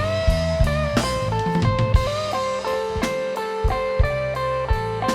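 Live band playing an instrumental break at a slow tempo: a sustained lead guitar melody over bass and a drum kit.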